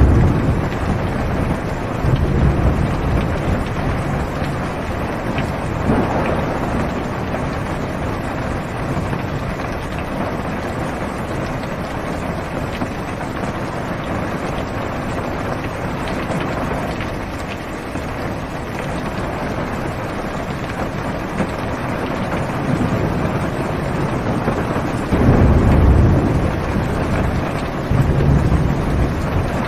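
Heavy rain falling steadily on a car's roof and windows, heard from inside the cabin, with low rolls of thunder a couple of seconds in and again, strongest, near the end.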